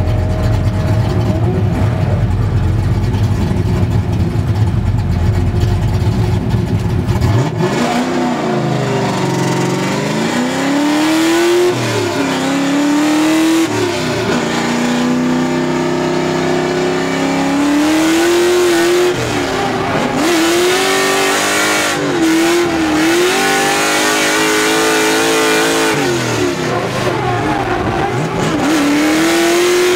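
Drift car's LS V8 engine heard from inside the cabin. It starts as a low rumble, then from about seven seconds in revs up and down over and over as the car drifts, its pitch climbing and dropping again and again.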